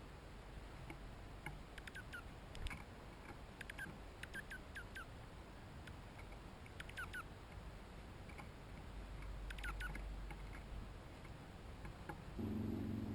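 Small songbirds giving short, sharp chip calls that slide downward, in quick runs of three to five notes, several times over. Near the end a steady low motor hum sets in underneath.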